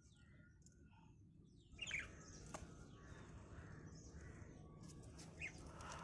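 A parrot giving short chirping calls: a louder one about two seconds in and another near the end, with faint low background hum between.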